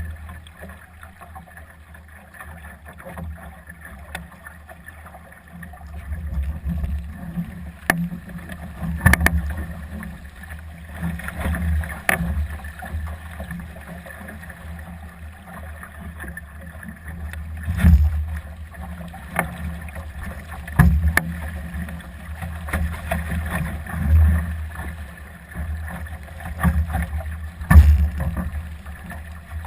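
Gusty wind buffeting the microphone aboard a Solo sailing dinghy, rising and falling every few seconds, with water slapping and knocking against the hull several times, loudest twice in the second half.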